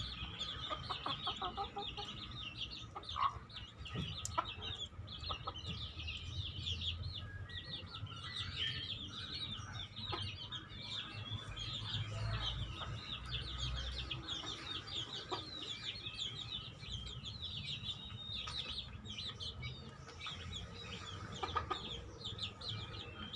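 Chickens clucking, over a dense, unbroken run of short high-pitched chirps.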